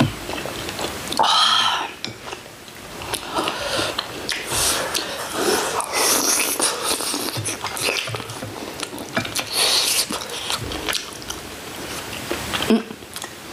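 People chewing and biting into braised chicken, with many short clicks and smacks throughout.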